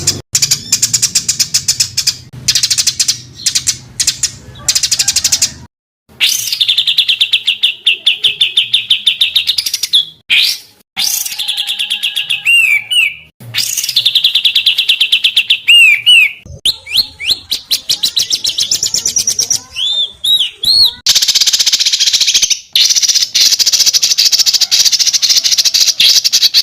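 Songbird song of the dense, harsh 'tembakan' kind: long, fast rattling trills broken by short gaps, with a few quick up-and-down whistles between them.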